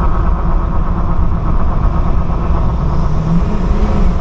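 2002 Ford 7.3 Powerstroke turbo-diesel V8 pickup driving, its engine running with a steady low rumble under road and wind noise, the engine note rising a little near the end. The engine runs smoothly, its rough idle cured by replacing crumbly injector wiring harnesses on both sides.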